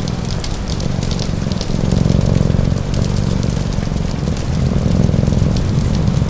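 Ambient mix of a cat purring, rain falling and a wood fire crackling. The purr is a low rumble that swells and eases every couple of seconds, the fire gives scattered sharp pops, and the rain is a steady hiss underneath.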